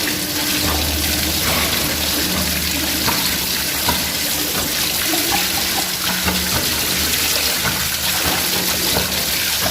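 Water pouring steadily out of a pressure booster pump's air tank, a constant rush. It is water that has leaked into the air side of the tank, the sign of a torn rubber bladder.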